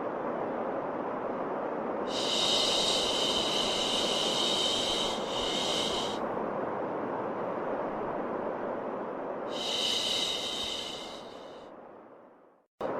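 Steady white noise with a long "shhh" shushing sound laid over it twice, each about four seconds long. Near the end the noise fades out to a moment of silence, then starts again abruptly, as a loop restarting.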